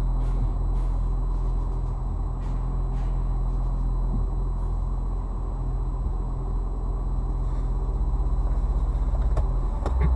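Steady low engine hum and rumble of a stationary car, heard from inside the cabin through a dashcam microphone, with a few faint clicks.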